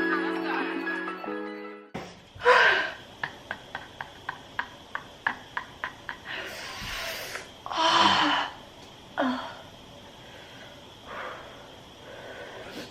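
Background music that cuts off after about two seconds, then a knife chopping an onion on a cutting board in a quick even run of about three strokes a second. Loud breathy gasps and sighs come between the cuts, from eyes stinging from the onion.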